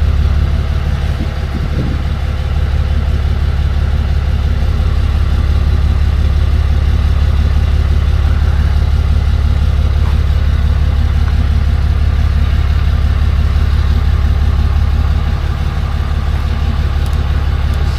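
Tow truck engine idling steadily with a deep, even hum.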